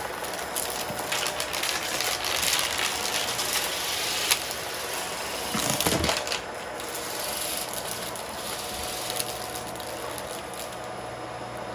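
Vacuum cleaner running steadily while it sucks up crunchy debris from a rug, with crackling and rattling as the grit is pulled in. A louder knock comes about six seconds in.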